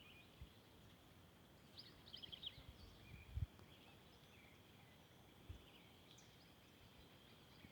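Faint outdoor ambience: a steady high thin hum with birds chirping briefly, a quick run of chirps about two seconds in, and a few soft low bumps.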